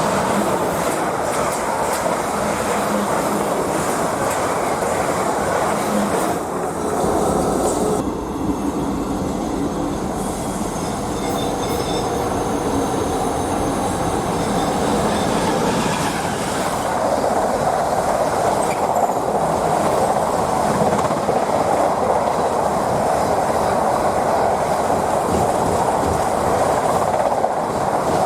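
A train running on the rails: continuous wheel-on-rail rumble that grows louder in the second half, with a faint high wheel squeal about ten seconds in.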